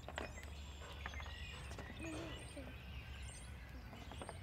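Small birds chirping and whistling over a steady low outdoor rumble, with a few faint sharp knocks.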